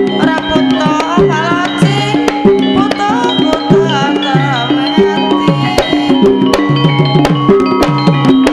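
Javanese gamelan music accompanying a lengger dance. Hand-drum (kendang) strokes with a falling pitch come quickly over ringing metallophone notes. From about a second in to about four and a half seconds, a melody line wavers in pitch above them.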